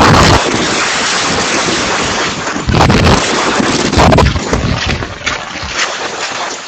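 Strong typhoon wind buffeting the microphone: a loud rushing roar with low rumbling, swelling and easing in gusts.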